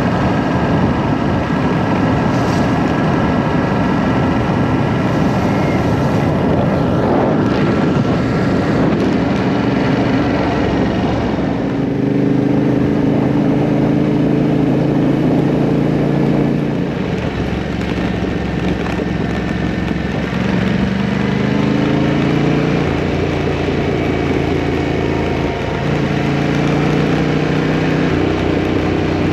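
Motorcycle engine running under way with heavy wind rush. The engine note holds steady, then shifts up and down in steps from about halfway through as the rider changes speed and gear.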